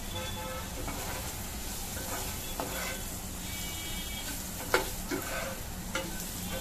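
Green chillies sizzling steadily in hot oil in a kadhai while a steel spoon stirs them, scraping through the pieces. In the second half the spoon clinks sharply against the pan a few times.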